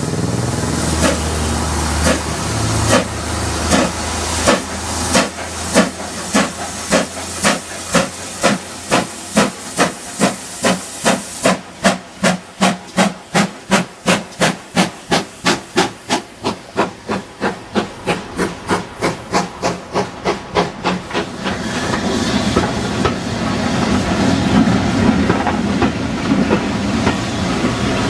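Steam locomotive working hard as it pulls away, its exhaust beats starting slow and quickening to about three a second. About twenty seconds in the beats fade into the steady noise of the train running past.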